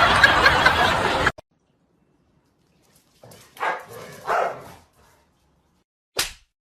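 Music cuts off suddenly about a second in; after a pause a dog barks twice, then makes one more short sharp sound near the end.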